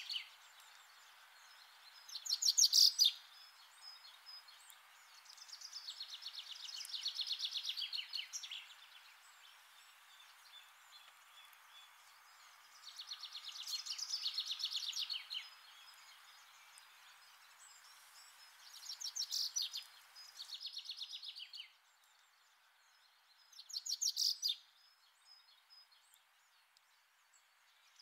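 A songbird singing short, rapid trilled phrases every few seconds over steady outdoor background noise, which drops to a lower level about two-thirds of the way through.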